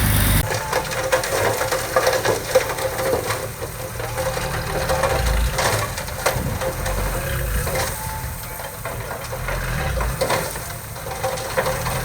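Earthmoving machine's diesel engine running, with irregular clanks and crunching over a low rumble that swells and falls. The sound changes abruptly about half a second in.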